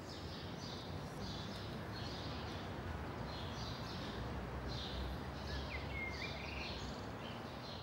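Outdoor ambience with birds chirping repeatedly, short high calls every half second to a second, over a low steady background rumble.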